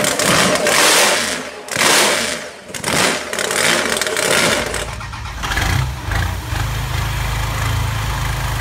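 Supercharged hot-rod engine of a chopped 1931 Chevrolet coupe revved in sharp blips about once a second. From about five seconds in, the 1968 Dodge Charger's 5.9 L Cummins diesel idles with a steady low rumble.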